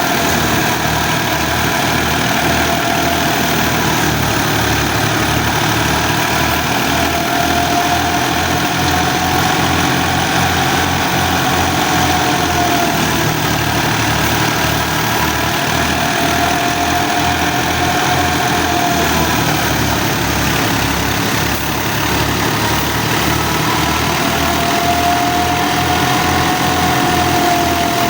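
Fiat 480 tractor's diesel engine running steadily while driving a thresher, with an even low throb and a high whine that slowly rises and falls in pitch.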